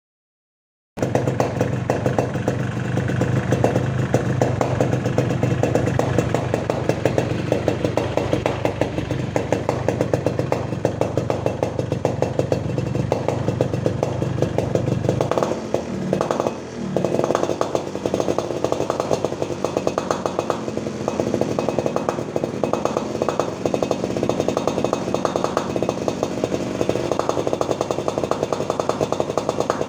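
Yamaha RX-King's single-cylinder two-stroke engine running through a gutted (hollowed-out) exhaust, a fast, even crackling pulse. It starts about a second in and dips briefly around the middle before carrying on.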